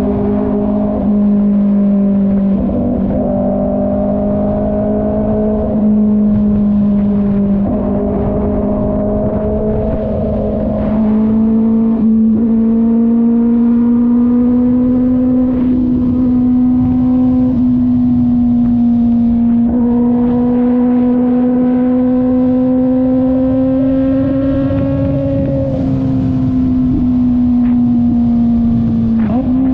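Kove 450RR's parallel-twin engine running at steady cruising revs. The pitch holds nearly level, with a few small dips and rises as the throttle changes and a slow climb through the middle.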